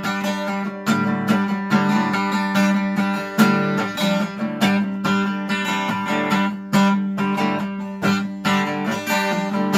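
Acoustic guitar strummed in a steady rhythm, an instrumental break between sung lines of a country-blues song.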